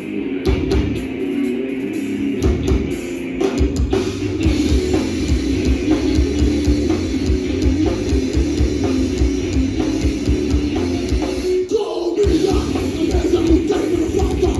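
Crossover metal band playing live: heavily distorted electric guitars over a driving drum kit with steady kick-drum hits. The band breaks off for a moment about twelve seconds in, then crashes back in.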